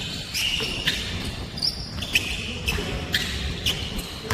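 Basketball being dribbled on a court, with sharp bounces about twice a second.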